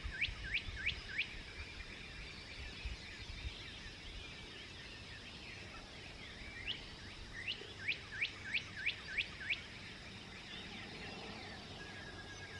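Birds singing at dawn: one bird repeats a quick series of short rising notes, about three a second, at the start and again about seven and a half seconds in. Fainter chirps from other birds fill the gaps.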